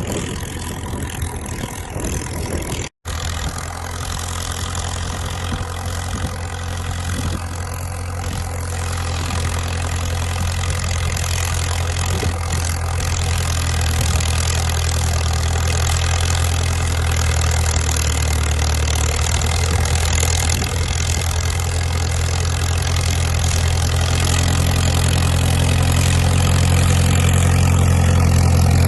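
Caterpillar crawler dozer's diesel engine running steadily with a deep, even hum, slowly growing louder. The sound drops out for an instant about three seconds in.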